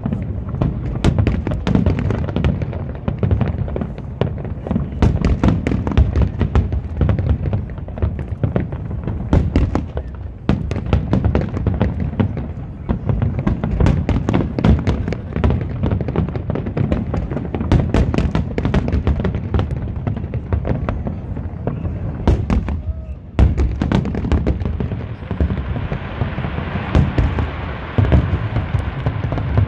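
Aerial firework shells bursting in rapid, overlapping succession: many sharp bangs over a continuous low rumble. A hissing crackle builds over the last few seconds.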